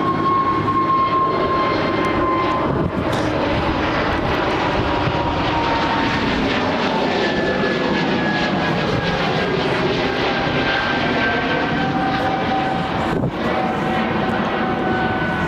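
Jet airliner passing low overhead: a steady engine roar with a high whine that slowly drops in pitch as it goes by.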